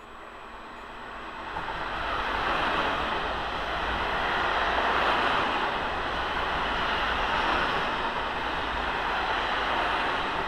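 Passenger train passing at speed on an adjacent track: the wheels roll over the rails with a steady rushing noise. The noise swells over the first couple of seconds as the train comes alongside, then holds steady while the carriages go by.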